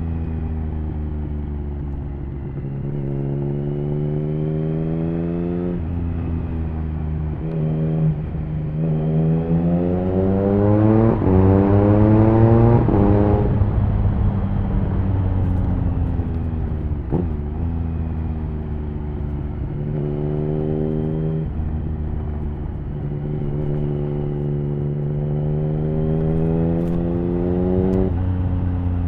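Triumph Speed Triple 1050's inline-three engine through an HP Corse Hydroform aftermarket exhaust, pulling up through the gears with quickshifted upshifts. Its pitch climbs and drops at each shift, loudest in a hard run of fast shifts about ten to thirteen seconds in, then it holds steadier before climbing again near the end.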